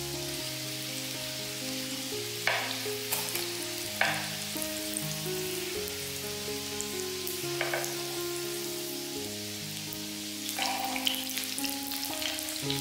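Vegetable patties shallow-frying in hot oil, a steady sizzle, with louder spits and crackles several times as the patties are turned and lifted with metal tongs.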